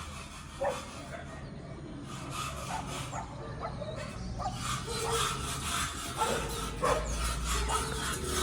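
Short animal calls, likely a dog, repeating irregularly every second or so over a steady low hum.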